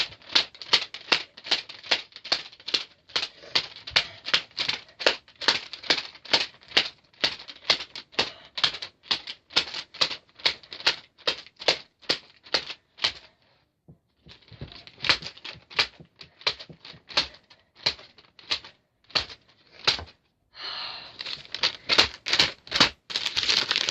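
Rapid sharp taps, about two to three a second, in a long steady run with a short break about halfway through, followed near the end by a steady rustling.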